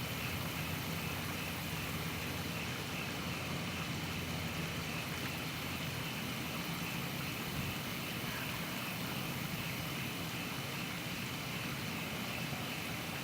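A steady low droning roar with a hiss on top, unchanging throughout, of unknown source; it does not swell and fade like a passing car.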